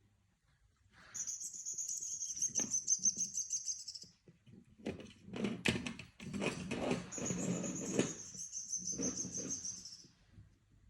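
Pet parrot giving a high, fast-fluttering trill twice, each about three seconds long, with a stretch of rustling noise between the two.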